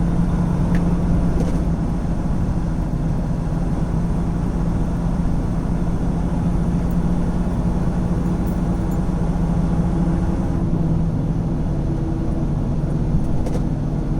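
Semi truck's diesel engine running steadily under way, heard from inside the cab over road noise. The engine note drops a little about ten seconds in.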